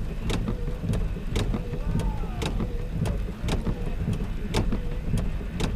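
Long freight train of autoracks passing: a steady rumble with sharp, regular clicks about two a second, wheels over rail joints, and faint wavering wheel squeal.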